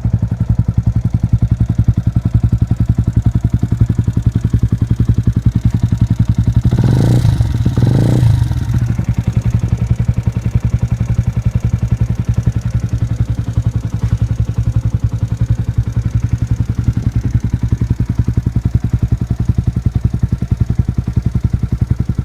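Motorcycle engine idling through its exhaust with a steady rapid pulse, blipped twice in quick succession about seven and eight seconds in, then settling back to idle.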